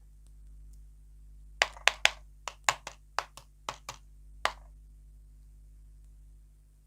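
About eleven sharp clicks or cracks in an uneven run lasting about three seconds, then quiet hum.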